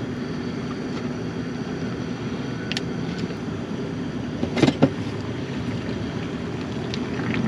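Pot of water at a rolling boil over a gas camp stove burner, a steady rumbling hiss. There are a few sharp clicks and knocks near the middle.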